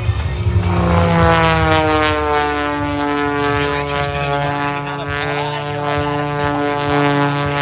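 Single-engine propeller aerobatic plane, a 1956 de Havilland Super Chipmunk, flying past with its engine and propeller note falling steadily in pitch as it goes by.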